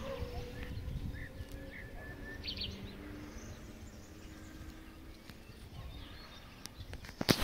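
Garden ambience: a few short, high bird chirps over a low background rumble, with a couple of sharp knocks near the end.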